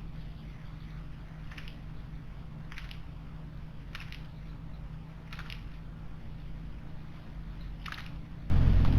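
Faint short ticks or chips about once every second and a bit, over a steady low hum. About eight and a half seconds in, the sound jumps suddenly to a much louder low rumble.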